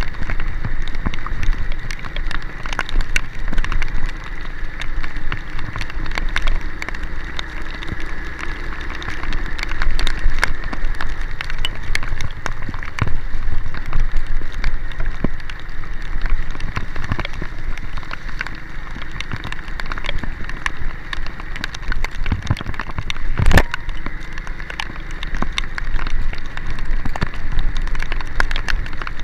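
Heavy rain, with many drops striking a surface close to the microphone, over a faint steady mechanical hum. One loud knock comes about 23 seconds in.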